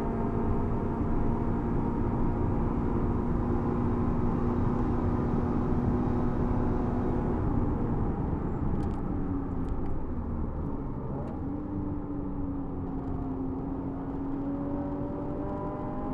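Scion FR-S's 2.0-litre flat-four engine heard from inside the cabin, held steady at full throttle in fifth gear near 120 mph. About halfway through the note changes and drops as the car brakes and shifts down to third, with a few light clicks, then the engine note rises again as it accelerates.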